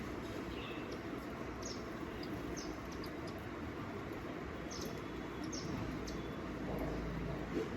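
Small bird giving short, high chirps, several of them scattered irregularly, over a steady low background noise.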